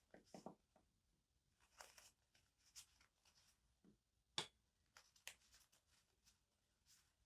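Faint rustling and light taps of paper and stationery being handled, in scattered short bursts, with one sharper click about four seconds in.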